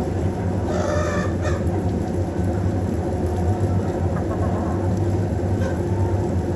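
Steady low rumble throughout, with a short chicken call about a second in.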